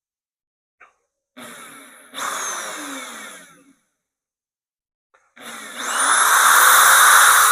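Corded 1/2-inch electric drill boring into the steel loader bucket: a run of about two seconds that winds down, then the drill starts again, its whine rising quickly and holding as it cuts.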